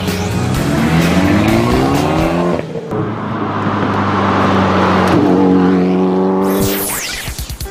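Sports car engine revving hard under acceleration. Its pitch climbs twice as it runs up through the gears, then it sweeps quickly past near the end.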